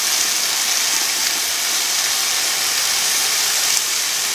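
Chicken breast frying in hot oil over high heat: a steady, hissing sizzle, with the oil spitting.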